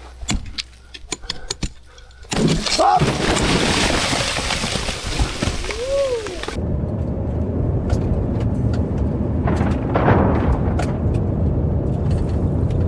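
Avalanche of snow coming down a mountainside: a loud rushing roar sets in about two seconds in and settles into a deep, heavy rumble. Wind hits the microphone during the loudest part.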